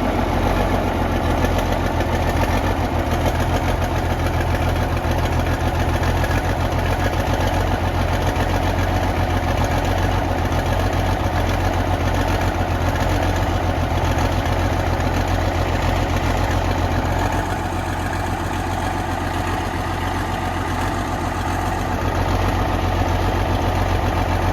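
Case 1175 tractor's six-cylinder turbo diesel idling steadily, just caught on a cold start. It eases off slightly for a few seconds about two-thirds of the way in.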